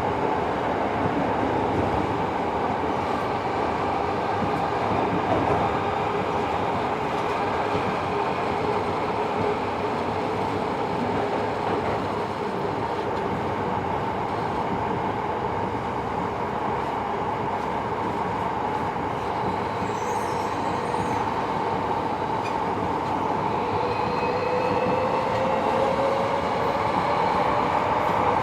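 Tobu 70000 series subway train running, heard inside the car: a steady rumble of wheels on rail with the traction motor's tone. About twenty seconds in there is a brief faint high squeal, and near the end the motor tone rises in pitch.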